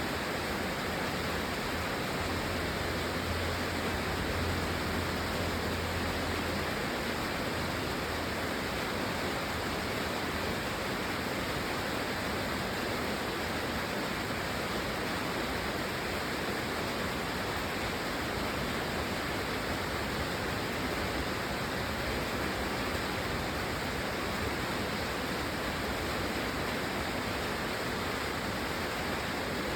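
Steady rain falling, a continuous even hiss with no single drops standing out. A low hum sits under it for the first several seconds.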